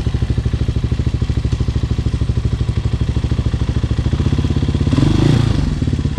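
Hawk 250 dirt bike's single-cylinder four-stroke engine idling with a quick, even chug, briefly getting louder about five seconds in.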